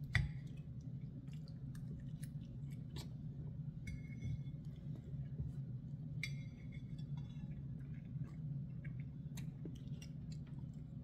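Chewing a mouthful of quesadilla with pico de gallo, while a metal fork clicks and scrapes on a plate, with two short squeaks about four and six seconds in. A steady low hum runs underneath.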